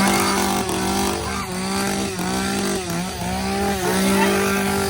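Chainsaw running at high revs, its engine note held steady with a few brief dips in pitch.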